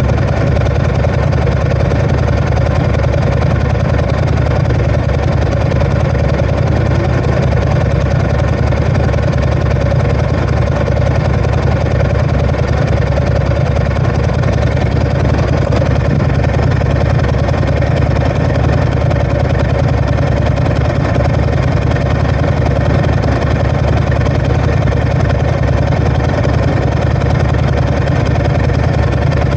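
Ducati ST4S motorcycle's L-twin engine idling steadily, a loud, even low-pitched running with no revving.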